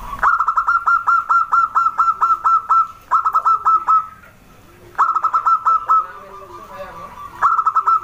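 Zebra dove (perkutut) cooing in quick runs of short, repeated notes: a long run of about three seconds, then three shorter runs with brief pauses between.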